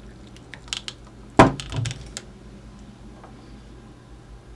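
Tableware being handled on a counter: a few light clicks, then one sharp knock as a cup is set down, with a brief clatter after it.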